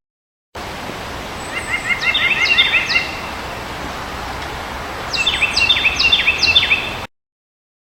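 White-breasted nuthatch giving its nasal da-da-da-da call: two bouts of quick repeated notes, one about a second and a half in and another near the end, over steady outdoor background hiss.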